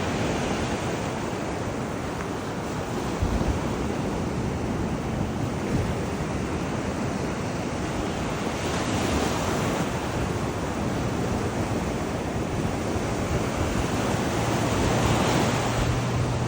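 Ocean surf breaking and washing up the beach, with wind buffeting the microphone. The wash swells about nine seconds in and again near the end, when a low steady hum also comes in.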